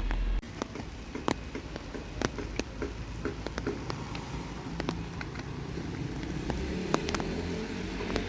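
Rain falling, with large drops ticking irregularly on an umbrella overhead, over a low steady rumble.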